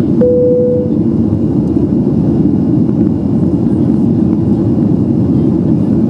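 Steady low cabin noise inside a Boeing 737-800 climbing after takeoff: the rumble of its CFM56 turbofan engines and the rush of airflow. A short steady tone sounds briefly near the start.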